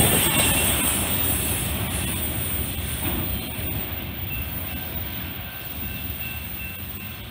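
Freight train cars rolling past on steel rails, wheels rumbling and clacking. The sound fades steadily as the last car goes by and the train moves away.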